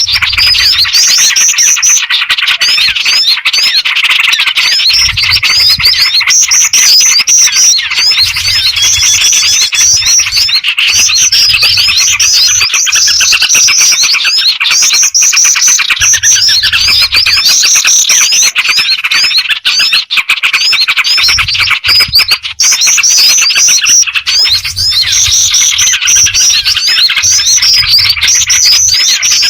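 A dense chorus of small birds chirping and calling over one another without a break. It is a bird-catchers' lure recording that mixes black-winged flycatcher-shrike, yellow-vented bulbul and other small birds.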